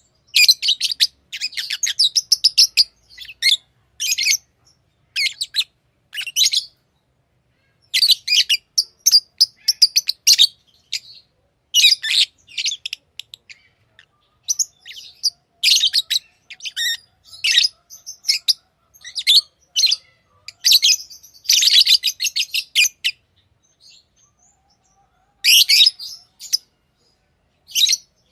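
Lovebirds chirping: quick runs of short, shrill high chirps, coming in bursts with brief pauses between them.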